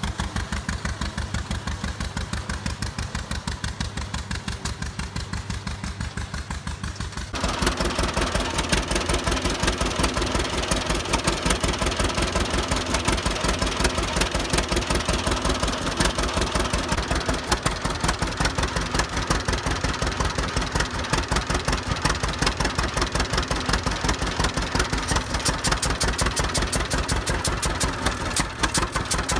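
Old tractor engine running at a steady idle, its firing beats evenly spaced. About seven seconds in the sound suddenly becomes louder and brighter, then holds steady.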